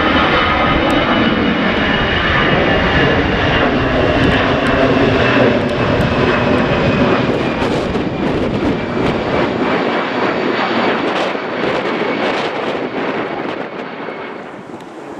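Jet airliner's engines running loud and close, a rumble under a high whine that sags slowly in pitch. Sharp crackles come in during the second half, and the sound fades near the end.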